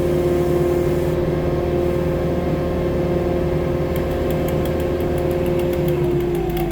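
Two-stroke chainsaw held at full throttle with a steady high pitch; about six seconds in the throttle is released and the revs fall away toward idle.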